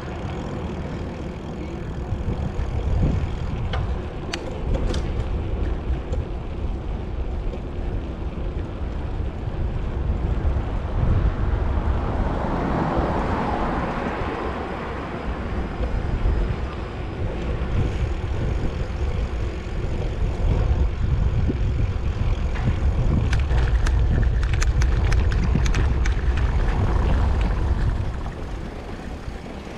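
Street noise recorded from a moving bicycle: steady low rumble of wind on the microphone and tyres on the road. A broad swell of traffic noise rises and fades about halfway through, with scattered short ticks and rattles near the start and again in the last few seconds.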